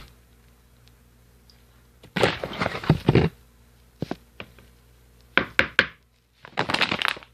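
Knocks and clattering of kitchen things being handled: a clatter about two seconds in, a few sharp single knocks, then another clatter near the end.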